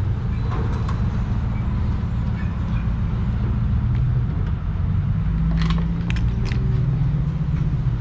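A vehicle engine running steadily with a low hum, with a few faint clicks about six seconds in.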